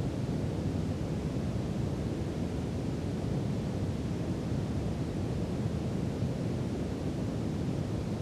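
Brown noise: a steady, deep hiss, heaviest in the bass and dull in the highs, that doesn't change.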